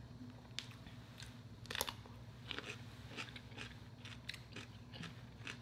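A person chewing food close to the microphone: faint, scattered mouth clicks and crunches, one a little louder just under two seconds in.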